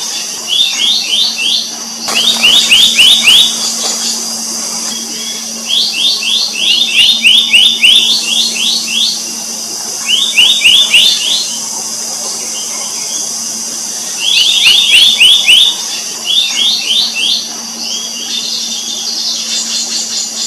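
Black-naped monarch calling: bursts of quick, sharp, falling notes, several to a burst, repeated every few seconds. A steady high tone and a faint low hum run underneath.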